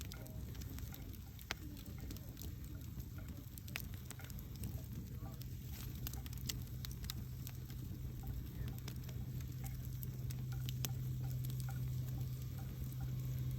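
Wood campfire crackling, with irregular sharp pops and snaps over a soft low rumble of burning. A low steady hum runs underneath and grows stronger about four seconds in.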